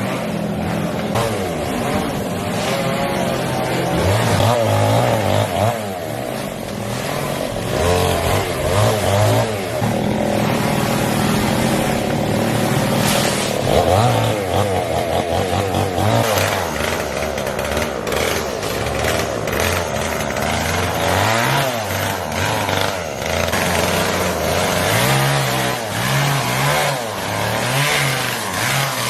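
Two-stroke chainsaw running and cutting through fallen tree trunks and branches, its engine pitch rising and falling repeatedly as it revs and loads up in the wood.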